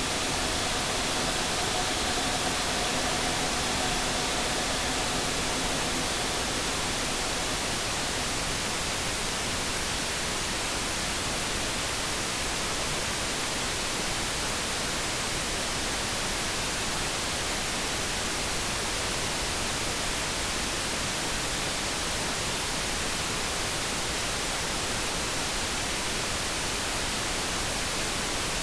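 Steady light brown noise, an even hiss. For about the first six seconds a faint electric kettle hum of a few held tones sits over it, then fades out.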